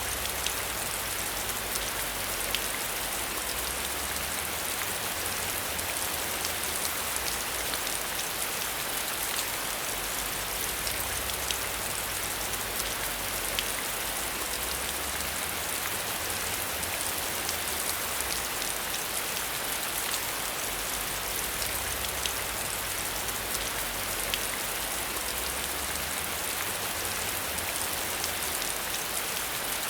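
Steady rain falling on a surface: an even hiss with many small drop ticks, unchanging throughout.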